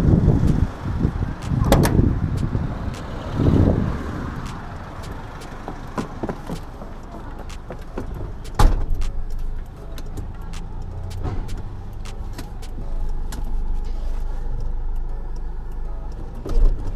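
Motor vehicle running, a steady low rumble with heavier surges in the first few seconds. Scattered clicks and knocks throughout, with one loud knock past the middle.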